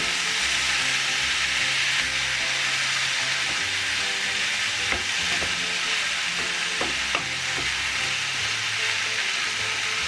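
Chicken, potatoes and carrots sizzling steadily in a hot frying pan while they are stirred with a wooden spatula, with a few light knocks of the spatula against the pan a little after the middle.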